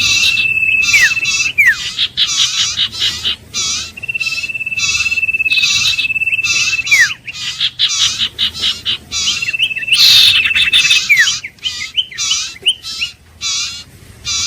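Iora singing: long level whistles, each held for a second or two and ending in a quick falling note, come four times over a rapid series of short repeated chirps.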